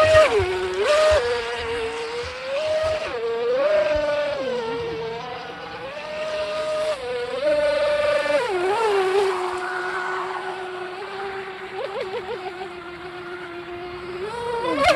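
RC mini boat's 2040 3900kv brushless motor whining as the throttle is worked: the pitch steps up and down again and again, then holds lower and steady for several seconds before rising near the end.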